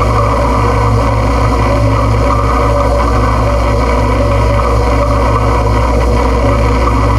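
Harsh noise music: a loud, steady wall of dense noise over a low droning rumble, with no beat or melody.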